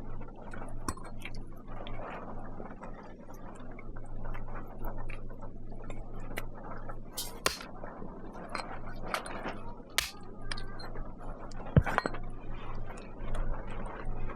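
Scattered sharp clinks and knocks over a steady low hum.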